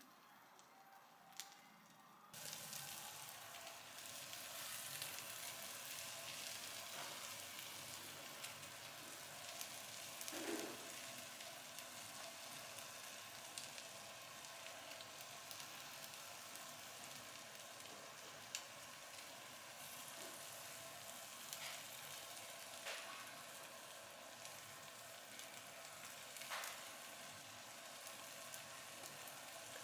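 Food sizzling steadily on a hot surface, with a few sharp pops. The sizzle starts abruptly about two seconds in.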